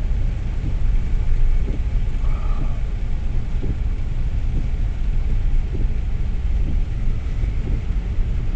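Car driving through flooded roads, heard from inside the cabin: a steady low rumble of engine, tyres and water under the car.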